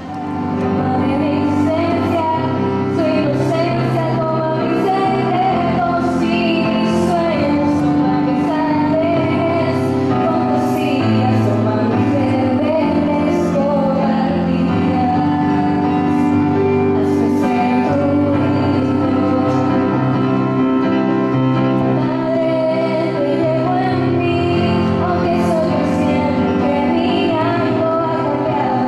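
An opening hymn: a woman singing a melody over sustained instrumental accompaniment, with light percussive ticks through it.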